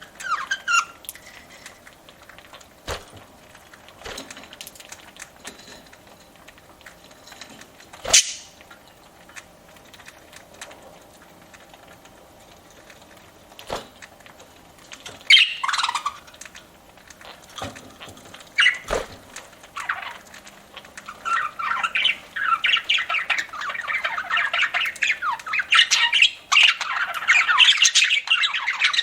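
Pet budgerigars calling. At first there are only a few short chirps and scattered sharp clicks; from about two-thirds of the way in, a steady warbling chatter of many rapid chirps and squawks sets in.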